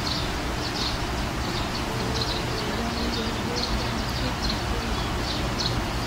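Short, thin, high-pitched bird peeps, several a second, over a steady rush of background noise.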